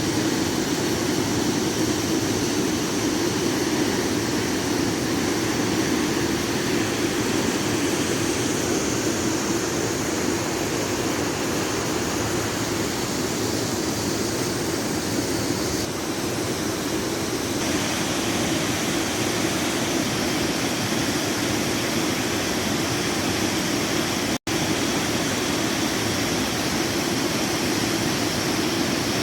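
Steady rushing noise, unchanging throughout, with a sudden split-second cut-out about twenty-four seconds in.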